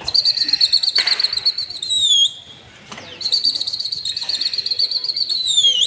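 Two long trilled whistles, each warbling on one high note and sliding down in pitch at its end: a pigeon flyer whistling to his flock in the air.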